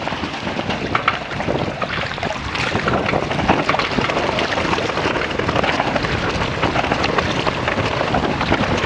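Strong wind buffeting the microphone aboard a sailing catamaran in a fresh breeze, a steady rushing noise with water splashing around the boat.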